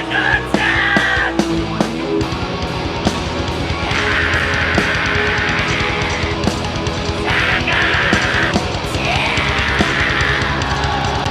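Live heavy metal band playing loud, with distorted guitars and drums. About two seconds in, the drums switch to a fast, dense beat.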